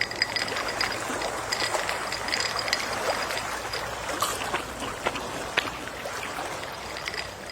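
Gentle sea waves lapping, a steady wash of water with many small trickling splashes and clicks.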